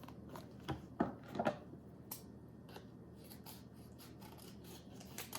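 Scissors snipping and a plastic snack packet being handled: a few sharp clicks about a second in, then quieter scattered clicks and rustles.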